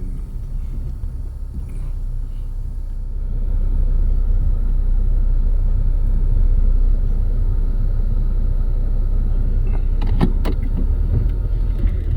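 Low, steady rumble of a car heard from inside its cabin, growing louder a few seconds in.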